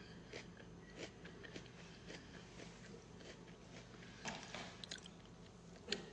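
Faint close-up chewing and mouth sounds, with scattered soft clicks and two sharper clicks, one about four seconds in and one near the end.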